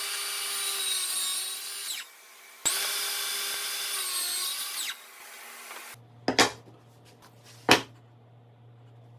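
A power tool working wood in two bursts of about two seconds each, its motor whine steady through each run, followed by two sharp knocks.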